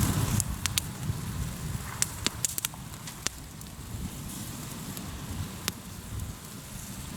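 Hardwood campfire burning in a fire stand, crackling with irregular sharp pops, several close together in the first few seconds, over a steady low rumble.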